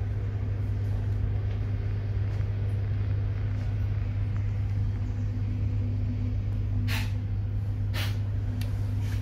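Interior running noise of a Bombardier Régio2N electric multiple unit: a steady low hum with faint steady tones above it. Two short hisses of air come about seven and eight seconds in.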